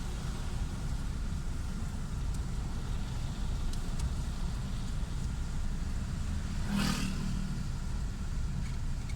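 A vehicle driving along a road, a steady low rumble, with a brief louder rush about seven seconds in.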